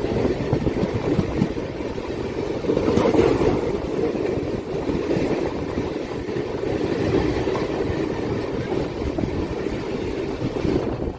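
Steady rumble of train wheels on rails and passing coaches: an Indian Railways passenger train running on the adjacent track alongside a moving train, heard from its open doorway with wind on the microphone. The noise drops at the very end as the last coach, a luggage van, passes.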